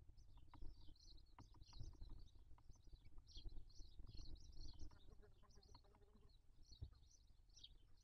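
Faint, rapid high-pitched bird chirping in quick clusters of short calls. Soft clicks and rustles are mixed in.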